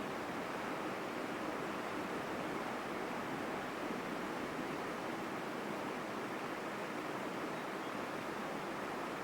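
Forest river flowing strongly: a steady, full rush of water that stays even throughout.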